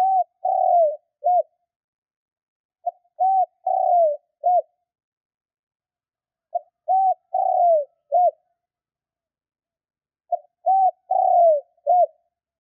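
Spotted dove cooing: a repeated phrase of four notes: a short note, a rounded note, a longer note that falls in pitch, then a short closing note. The phrase comes about every four seconds, four times, with silence between.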